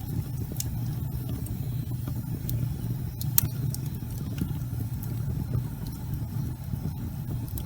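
Wood fire burning in a fireplace: a steady low rumble with scattered sharp crackles and pops, the loudest pop about three and a half seconds in.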